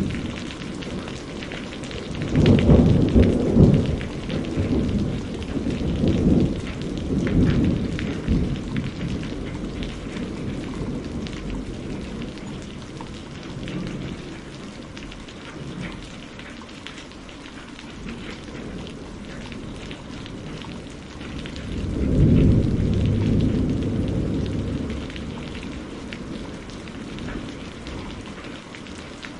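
Steady rain falling, with two low rolls of thunder: a long one starting about two seconds in and rumbling on for several seconds, and another about twenty-two seconds in.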